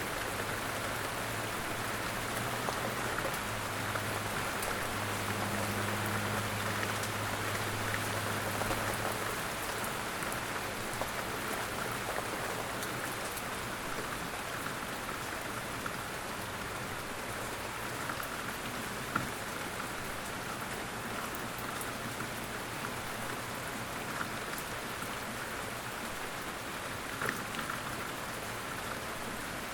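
Steady light rain falling in woodland, with now and then a louder single drop. A faint low hum sits under it for the first third.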